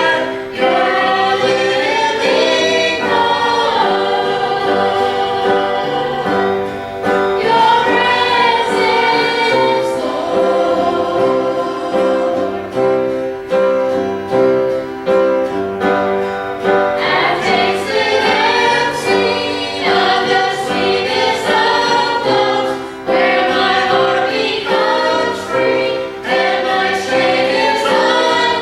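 Gospel singers, a lead with backing vocalists, singing a hymn-style song with piano accompaniment.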